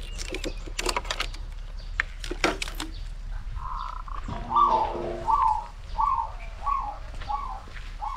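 A few sharp clicks and rustles of handling, then a bird calling: a series of about six short, downward-slurred notes, one every half second or so.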